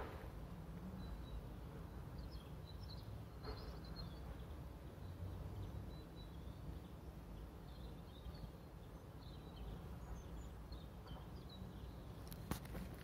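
Quiet outdoor background with small birds chirping faintly on and off, short high notes, over a steady low noise. A few sharp taps near the end.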